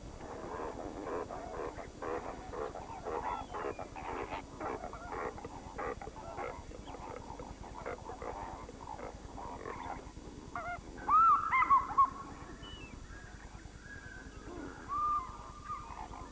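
Birds calling: a busy run of short, overlapping calls, then several louder, clear calls that rise and fall, about eleven seconds in.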